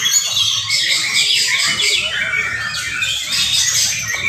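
Several young white-rumped shamas singing at once in competition, a dense, unbroken mix of fast chirps, trills and whistles.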